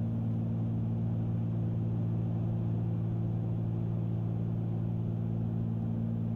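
Steady cabin drone of a Cessna 310Q's twin piston engines and propellers in cruise, a constant low hum with several fixed pitches over engine and air noise.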